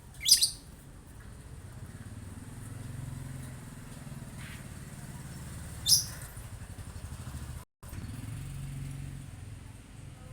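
Two short, sharp, high bird chirps about six seconds apart, over the low, pulsing rumble of a motor vehicle's engine, with a brief break in the sound about three-quarters of the way through.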